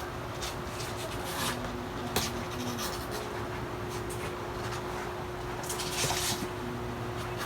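Soft scratching and rustling with a sharp click about two seconds in, over a steady low electrical hum.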